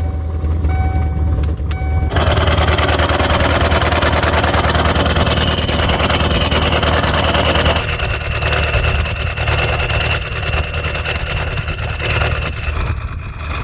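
Ford 7.3 L Powerstroke V8 turbo-diesel idling just after a cold start, its glow plugs having warmed it first. About two seconds in a steady hiss with a thin high whine joins over the engine, thinning out in the second half.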